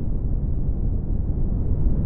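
Synthesized brown noise: a steady, deep hiss, strongest in the bass and falling away toward the treble, with no highs.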